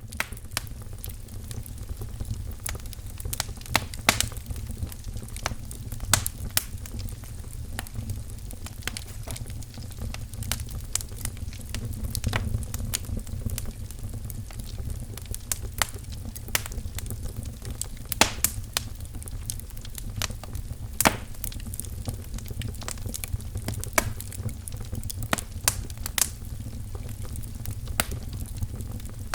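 Wood fire crackling in a fireplace: frequent irregular sharp pops and snaps over a steady low rumble of burning logs.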